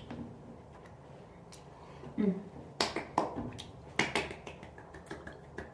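A handful of short, sharp clicks and taps, scattered and irregular, with the loudest ones around three to four seconds in, and a brief low hum-like vocal sound about two seconds in.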